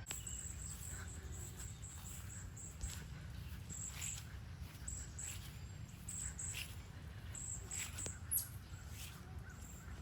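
Faint backyard ambience of wild birds: scattered short, high chirps and a few brief calls, over a steady low rumble.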